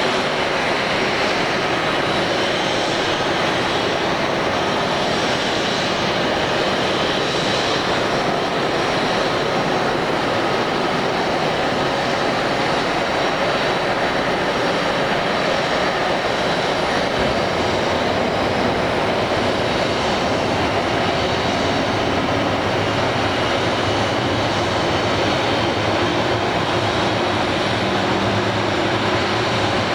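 Boeing 737-500 airliner's CFM56 turbofan engines running, a steady jet noise with a faint high whine that holds level throughout.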